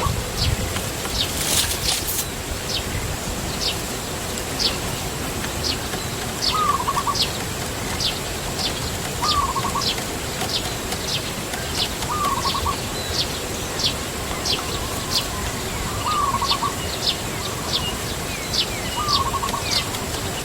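Birds calling: a short, hooked call repeated every two to three seconds, over a stream of thin high chirps about once or twice a second. A steady high tone runs underneath.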